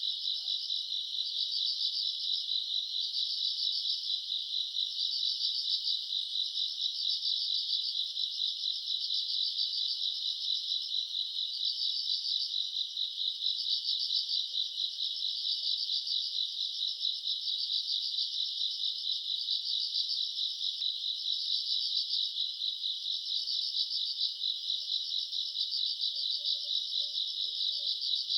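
Chorus of crickets and other night insects chirping continuously in a summer night, a dense, fast pulsing trill at a high pitch that holds steady throughout.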